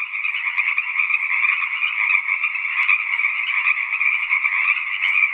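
A chorus of frogs calling in a steady, dense din that stops abruptly at the end.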